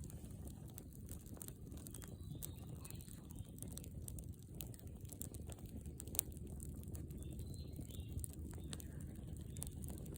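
Wood campfire crackling: scattered sharp pops and snaps, one louder pop about six seconds in, over a low steady rumble.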